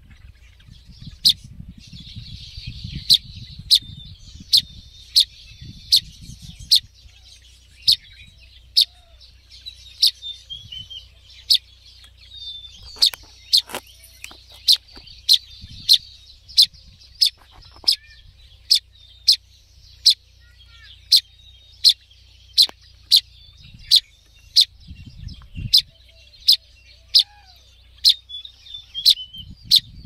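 Fledgling songbird calling with short, sharp chirps repeated over and over, a little more than one a second, over a fainter continuous twittering.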